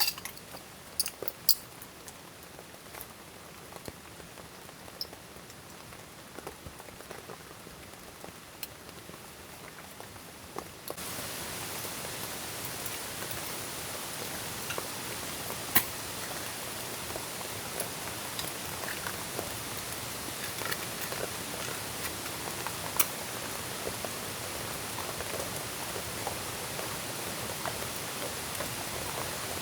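Steady rain falling, with scattered sharp drops striking close by. About eleven seconds in, the rain suddenly becomes louder and denser.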